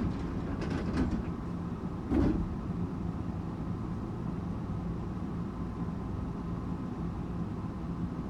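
Interior noise of a Tokyu 8500-series electric train car: a steady rumble with a constant hum. Two short knocks come about one and two seconds in. The hum holds one pitch, so the train is neither accelerating nor braking.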